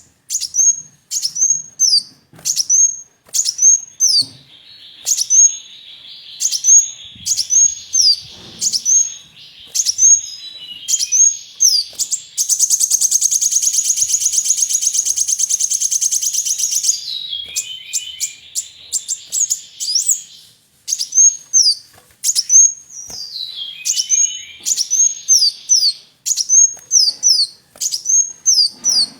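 A kolibri wulung sunbird singing: a steady run of short, high, down-slurred chirps, one or two a second, over a lower chatter. Midway it breaks into a rapid, buzzing high trill that lasts about four seconds.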